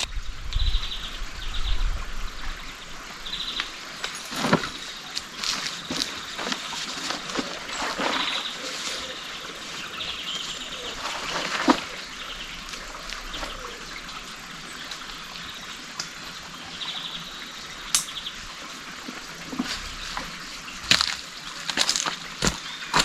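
Small stream trickling, with short bird chirps and scattered clicks and knocks on top.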